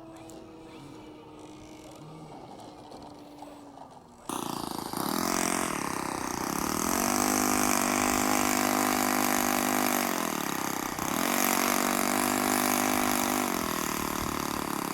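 An engine starts to be heard about four seconds in and runs with a rising, then steady pitch. It eases off briefly around two-thirds of the way through, picks up again, and fades near the end. A loud rushing hiss runs over it.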